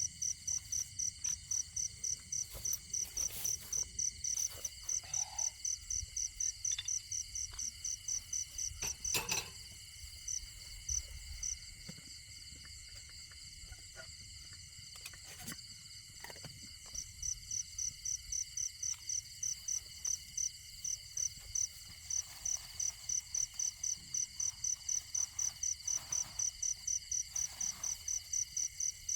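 Crickets chirping in a rapid, even pulse with a steady high insect drone behind them; the chirping pauses for several seconds partway through, then resumes.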